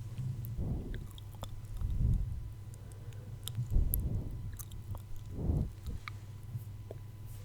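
Close-miked ASMR mouth sounds: scattered small wet clicks and smacks, with four soft low swells spaced about a second and a half apart.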